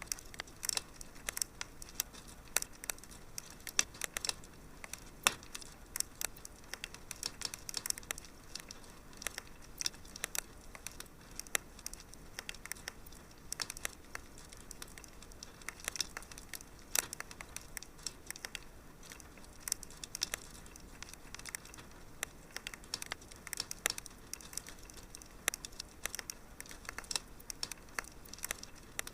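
Fire crackling in a fireplace: irregular sharp pops and snaps, several a second, over a soft steady hiss.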